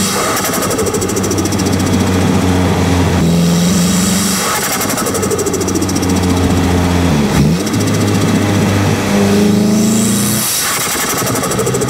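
Nissan Silvia S15's turbocharged SR20DET four-cylinder, heard from a microphone at the T28 turbo while driving. The engine note shifts up and down about three times as the revs change, with rapid turbo flutter chatter as the throttle lifts.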